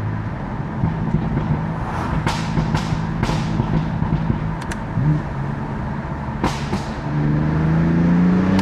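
BMW F80 M3's S55 twin-turbo inline-six with its stock exhaust, running steadily while driving, then rising in pitch as it accelerates over the last second and a half. A few sharp clicks are heard along the way.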